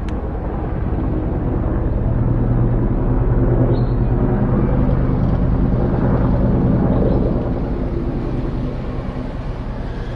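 Helicopter flying low overhead, a steady engine and rotor sound with a pulsing low end that grows louder through the middle and eases off after about seven seconds.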